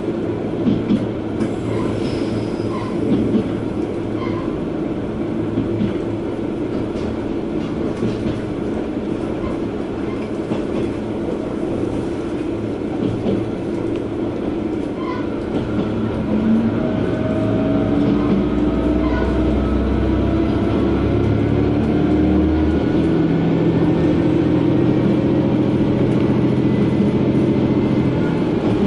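Inside the cabin of a KiHa 120 diesel railcar running along the line, with wheels on the rails and the engine droning. About halfway through, the engine note climbs and gets louder as the railcar picks up speed.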